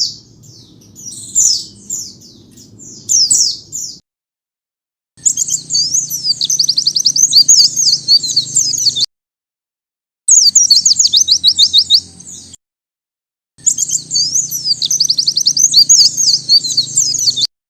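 White-eye (pleci) calling and singing. There are separate high chirps for the first few seconds, then three bursts of fast, high twittering song a few seconds each. The bursts are divided by abrupt gaps of dead silence where the recording has been edited and looped.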